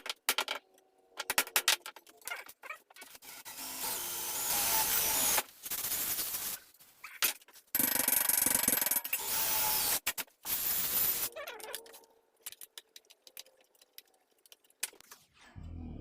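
A handheld power tool cutting into sheet steel in four runs of one to three seconds each, opening a wheel hole in a pressed-steel toy body. A few sharp metal clicks and knocks come first and after.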